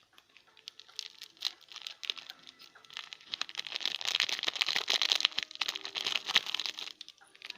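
Plastic packaging crinkling and tearing, sparse crackles that thicken into a dense, louder crackle in the middle and then die away.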